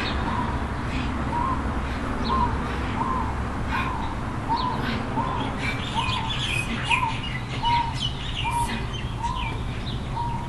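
Birds calling: one bird repeats a short single note about every three-quarters of a second, while others join with scattered higher chirps from about halfway, over a steady low background rumble.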